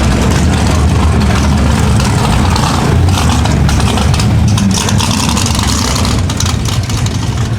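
Drag car's engine running loud and steady with a deep low rumble and some crackle, holding without a clear rev-up.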